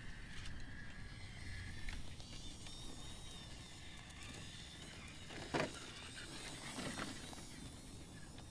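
1/10-scale RC crawler (Element RC Enduro KnightRunner) driving over a trail: a faint electric motor whine that wavers with throttle, over the noise of tyres on ground. A louder scrape about five and a half seconds in, and another around seven seconds.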